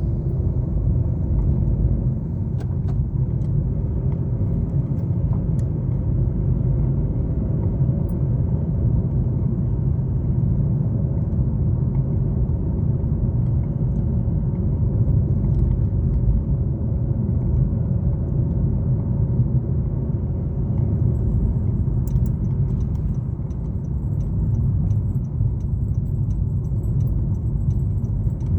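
A car driving along a highway: steady low rumble of engine and tyre noise. Faint light clicking and jingling joins in for the last several seconds.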